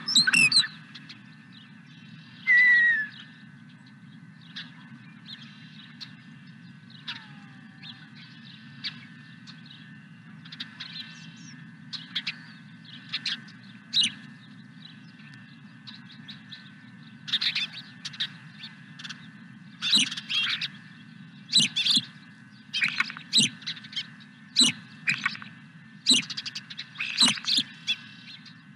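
Wild songbirds chirping in short, repeated calls, sparse at first and coming thick and fast in the second half, with a couple of falling whistled notes early on, over a steady low background hum.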